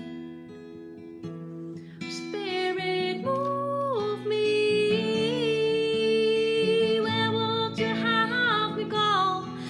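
Song with acoustic guitar accompaniment; a woman's voice comes in about two seconds in, singing a slow melody over the guitar.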